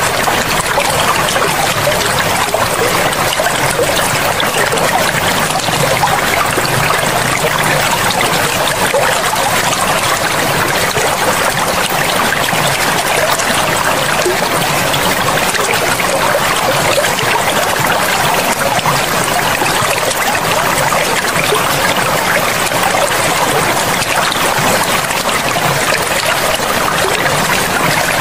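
Forest river water flowing and splashing in a steady, unbroken rush.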